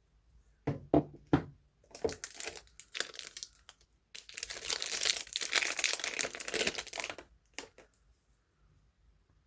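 Soap packaging being handled and unwrapped: a few light knocks, then wrapping crinkling in short bursts and then steadily for about three seconds, ending in a couple of clicks.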